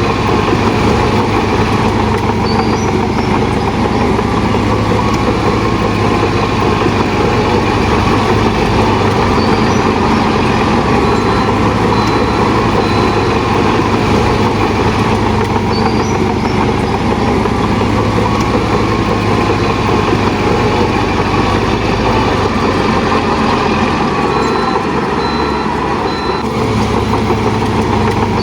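Shantui DH17 bulldozer's diesel engine running steadily under load, with the clatter of its steel tracks.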